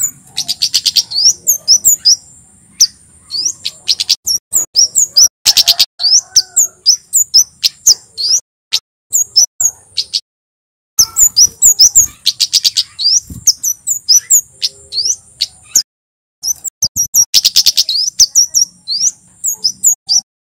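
Male Javan kemade, a flowerpecker, singing: rapid runs of sharp, high-pitched chirps lasting several seconds, with a thin steady high whistle under them. There is a break of about two seconds shortly before halfway and another brief pause later.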